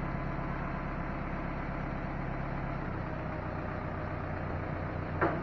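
A vehicle engine idling steadily, its pitch dropping slightly about three seconds in, with one short falling squeal near the end.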